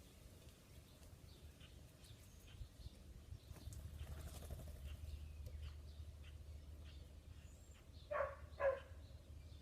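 Wild birds chirping faintly and sporadically, with two short, loud calls near the end, about half a second apart.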